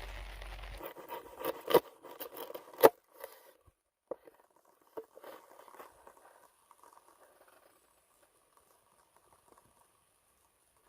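Cooking handling sounds: a series of light taps and clicks, with two sharper clicks just under 2 seconds and about 3 seconds in. The taps thin out and it falls to near silence in the second half.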